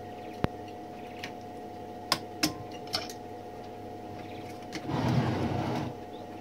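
Sharp metallic clicks and taps as small typewriter parts are handled and taken apart, four separate clicks in the first half, then about a second of scraping or rustling near the end, over a steady electrical hum.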